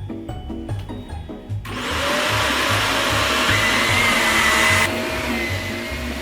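Vacuum cleaner switching on about a second and a half in and running with a steady whine that rises in pitch near the middle, over background music with a steady beat.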